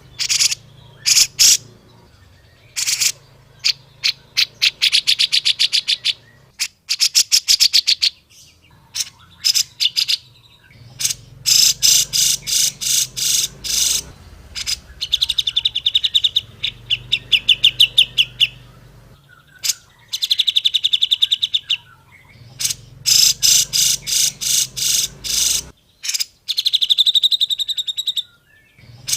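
Cucak jenggot bulbul song from a birdkeepers' master recording: rapid chattering trills of fast repeated high notes, in bursts of one to three seconds with short pauses between them.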